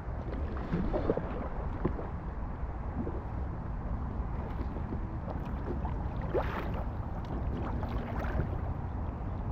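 Kayak paddles splashing and dripping in river water in irregular strokes, over steady low wind noise on the microphone.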